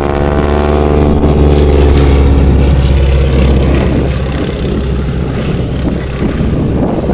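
Propeller-driven biplane making a slow pass, its piston engine and propeller tone dropping in pitch as it goes by. The sound is loudest about two seconds in, then turns into a rougher drone as the plane moves away.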